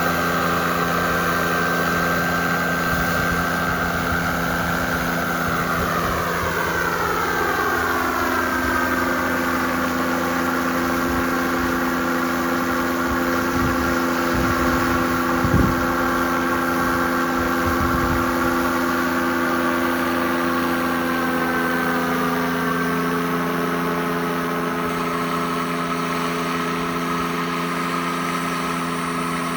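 Model jet's turbine engine running, its whine sliding down in pitch over a few seconds, holding steady, then rising a little about twenty seconds in, over a steady low hum. A few low thumps come about halfway through.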